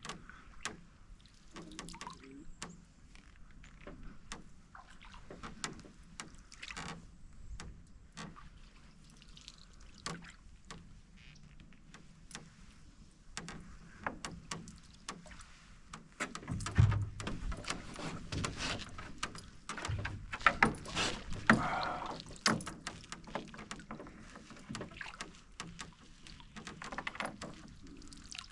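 Canoe being paddled: small knocks and creaks from the paddle and hull with the paddle working the water. The knocks grow busier and louder about halfway through, with a heavy thump in the hull.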